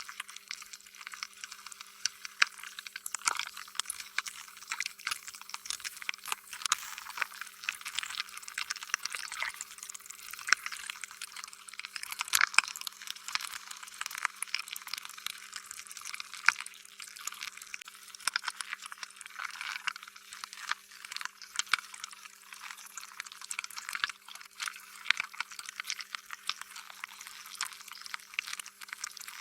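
Slime being squished and stretched: an unbroken run of wet, sticky clicks and squelches.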